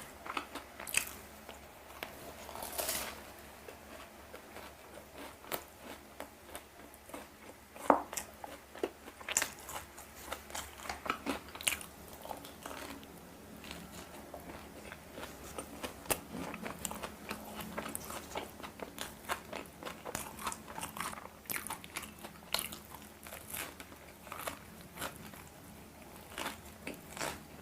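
Close-miked eating of donuts: biting and chewing, with irregular wet mouth clicks and smacks.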